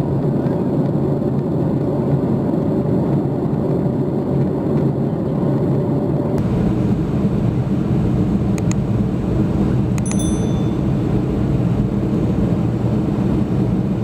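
Airliner cabin noise from a window seat in flight: a steady engine and airflow rumble. About six seconds in the sound changes as it switches to another flight's shot, and about ten seconds in there is a short high ping.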